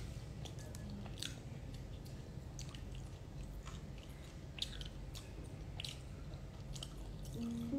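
A person chewing grilled satay with mouth-close eating sounds: soft, irregular clicks and smacks, roughly two a second. Background music comes in near the end.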